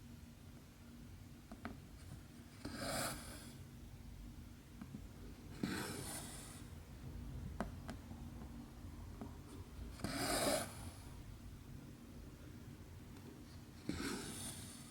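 Cross stitch thread pulled through 11-count fabric: four rasping swishes, roughly one every three to four seconds, with a few faint ticks between them.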